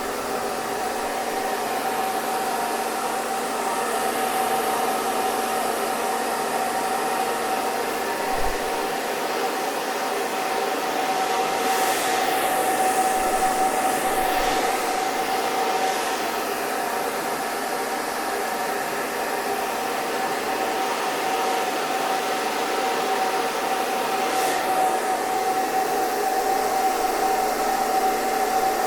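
Hair dryer running steadily: a constant rush of air over a steady motor whine. The airy hiss briefly shifts and sweeps about twelve seconds in and again near twenty-five seconds.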